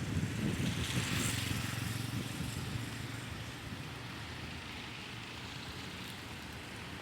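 Motor vehicle rumbling past, fading away over the first few seconds and leaving a steady low background noise.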